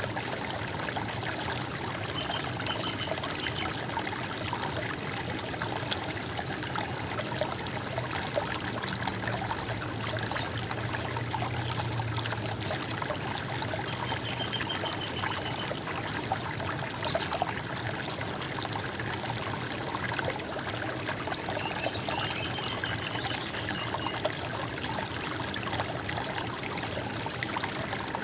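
Water running and trickling steadily, an even gurgling stream. A few faint short trilled bird calls come through it, near the start, about halfway and again a little later.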